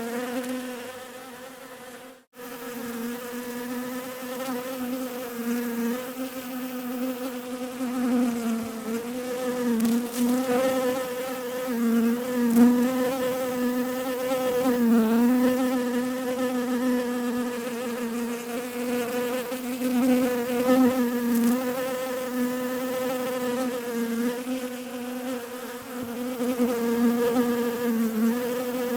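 Bees buzzing steadily, a low droning hum whose pitch wavers slightly. The buzz fades and cuts out for a moment about two seconds in, then resumes.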